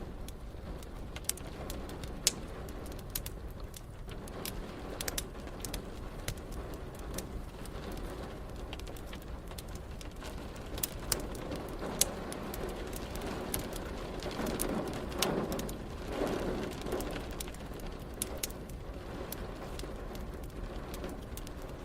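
Fireplace crackling with frequent sharp pops over a steady hiss of rain, with a muffled swell about two-thirds through.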